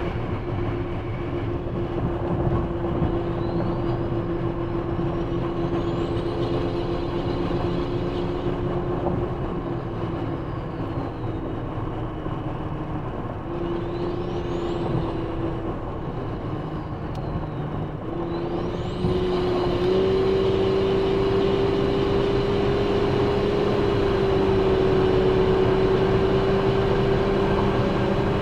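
Turbocharged Toyota 1MZ-FE V6 in a 2001 Camry pulling under way: a steady engine drone with a high turbo whine that rises in pitch as the turbo spools, three times. On the last rise, about two-thirds through, the engine gets louder and the whine holds high as boost builds.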